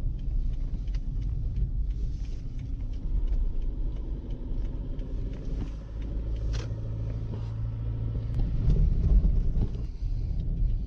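A car being driven along a country road, heard from inside: a continuous low rumble of road and engine with frequent small knocks and rattles. A steadier engine hum comes up about halfway through.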